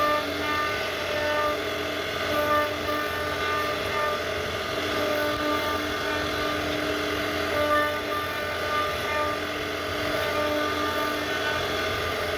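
CNC router carving wood: a steady machine noise under whining tones that start, stop and change pitch every second or so.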